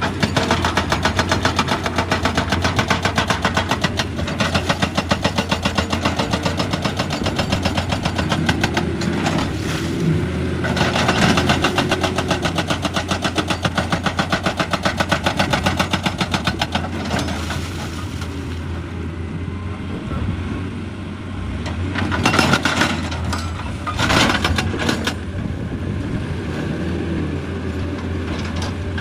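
Excavator-mounted hydraulic breaker hammering rock in a long run of rapid, even blows over the excavator's steady diesel drone. The hammering stops for a few seconds past the middle, then starts again in shorter bursts.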